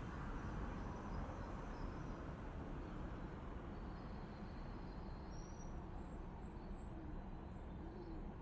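Outdoor background noise: a steady low rumble, with a few faint, short high bird chirps about halfway through.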